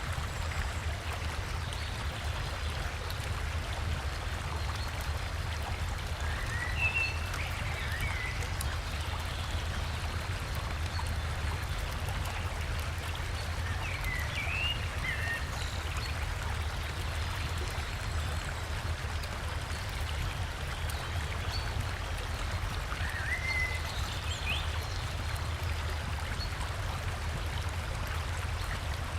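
Steady rush of river water flowing over a gentle waterfall, with a deep low rumble beneath it. A small bird sings short chirping phrases three times, several seconds apart.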